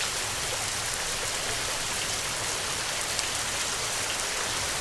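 Steady rain falling, an even wash of noise with scattered individual drops ticking through it.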